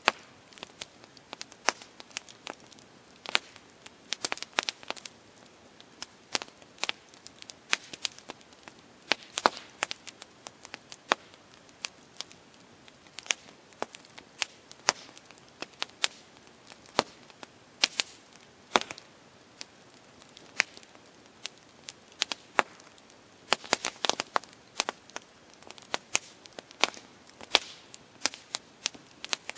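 Wood fire crackling, with irregular sharp pops and snaps from the burning wood, some coming in quick clusters, over a faint steady hiss.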